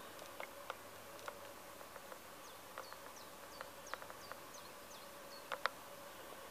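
Faint background bird calls: a quick run of about seven short, falling chirps through the middle, over a faint steady hum. Scattered sharp clicks sound throughout, the loudest two a little after the chirps.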